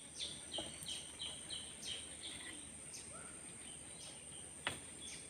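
Tropical forest ambience: a steady high-pitched insect drone under a bird calling a quick series of short, falling chirps, about two a second, in the first half. A single sharp knock comes near the end.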